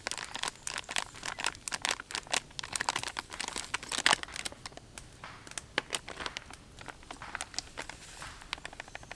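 Rapid, irregular crinkling and crackling, dense for the first half and thinning out in the second.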